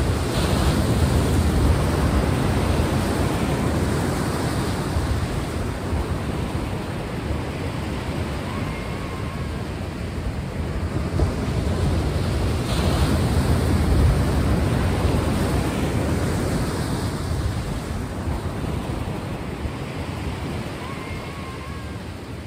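Sea waves rushing and washing on a shore, a steady surf noise that swells twice.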